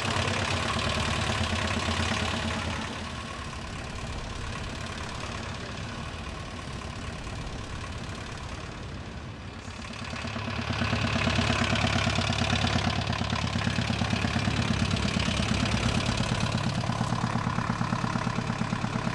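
Small hatchback car's engine running: louder at the start, fainter for several seconds, then idling louder with a fast, even pulsing beat from about ten seconds in.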